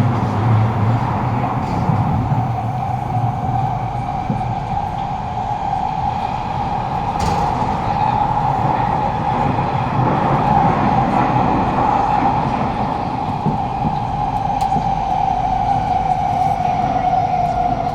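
Kawasaki-CRRC C151A metro train running between stations, heard from inside the carriage: a steady rumble with a continuous mid-pitched drone that sinks slightly in pitch near the end.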